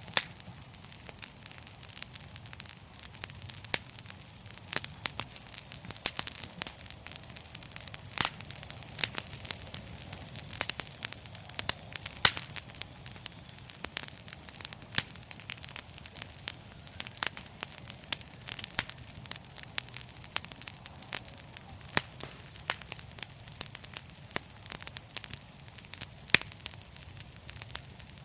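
Wood fire crackling in a fireplace: a steady stream of irregular sharp pops and snaps over a low, even rumble of flames.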